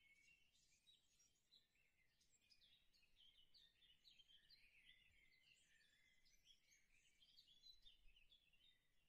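Very faint bird twittering: a steady run of short, high chirps.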